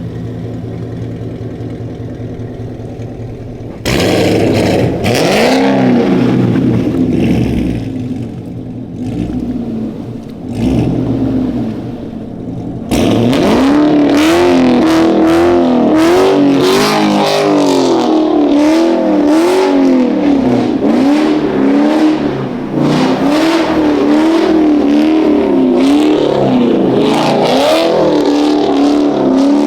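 Chevrolet Camaro V8 running low and steady, then jumping louder about four seconds in as the revs climb and fall. From about thirteen seconds it is louder still, with the revs swinging up and down rapidly and over and over under hard throttle while the car slides on snow.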